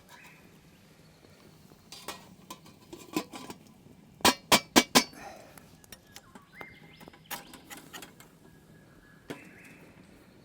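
Metal camp cookware clinking and clanking as it is handled: a few light knocks, then four sharp clanks in quick succession about four seconds in, then scattered lighter clinks.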